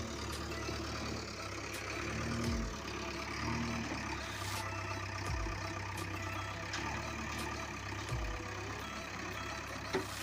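Heavy diesel engine running steadily, with a deep surge about every two to three seconds.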